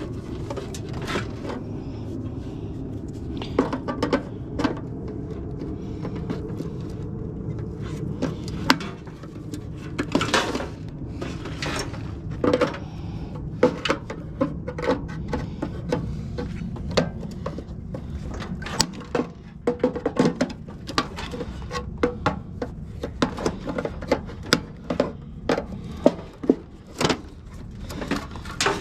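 Irregular clicks, knocks and scrapes of plastic being pried and peeled off the copper of a scrapped water heater, over a steady low hum.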